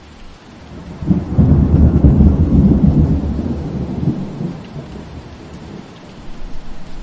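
Steady rain hiss with a roll of thunder that breaks in sharply about a second in, a deep rumble that lasts a few seconds and then fades back into the rain.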